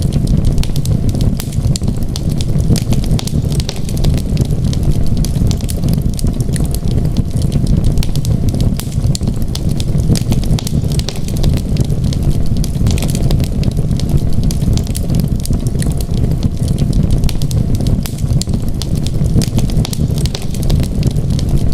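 Wood fire crackling in a fireplace: frequent small sharp pops and snaps over a constant low rumble.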